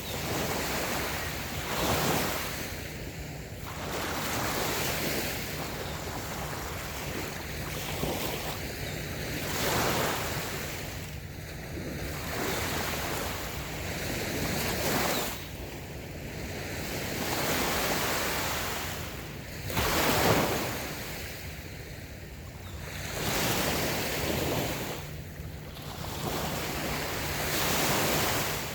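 Small waves breaking and washing onto a sandy beach. The surf swells and eases every few seconds, with the biggest surges about 2, 10 and 20 seconds in.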